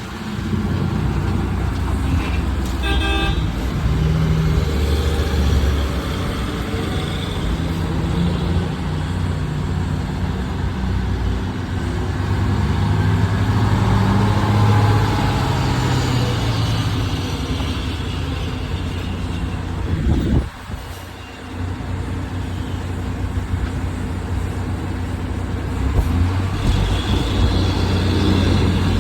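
Heavy road-works machinery running steadily, with a deep engine drone, during asphalt milling. A short horn-like toot sounds about three seconds in.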